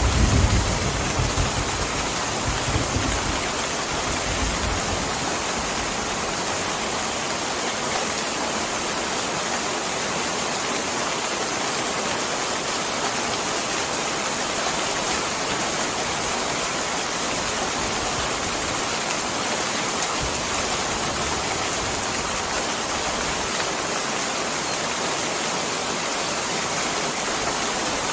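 Steady, even rain. A low rumble comes and goes in the first few seconds.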